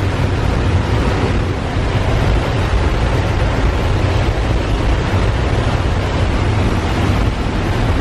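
Small skydiving jump plane in flight, a steady loud drone of engine and wind noise heard from inside the aircraft.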